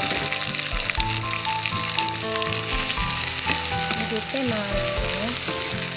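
Pork pieces sizzling in a hot frying pan with sautéed onions and garlic, turned over with a wooden spatula. The sizzle is a steady, dense hiss.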